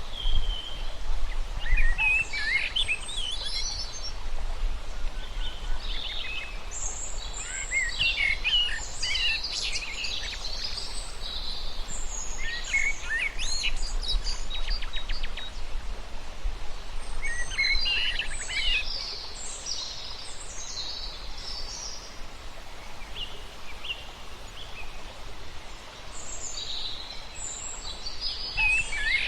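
Small birds chirping and trilling in several bouts of quick, high notes, over a steady low background noise.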